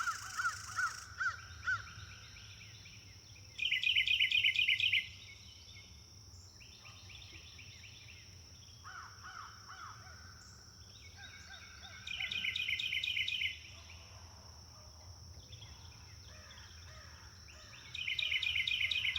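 Wild birds singing: a loud, rapid trilled phrase of about a second and a half comes three times, roughly every seven seconds, with softer chirps from other birds between.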